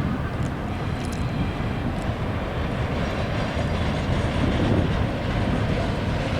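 Norfolk Southern train rolling past: a steady rumble with a few faint clicks.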